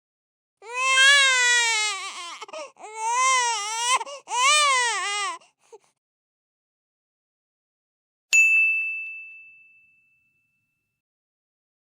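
A baby crying in three wavering wails over about five seconds, then, after a pause, a single bright ding that rings out for about two seconds.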